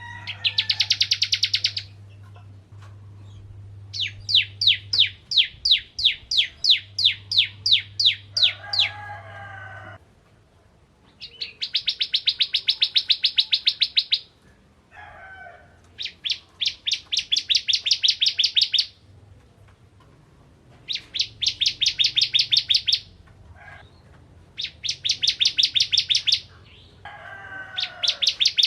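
Ciblek kristal (a prinia) singing: bursts of rapid, evenly repeated high chipping notes, each lasting one to three seconds, with short pauses between, about seven bursts in all.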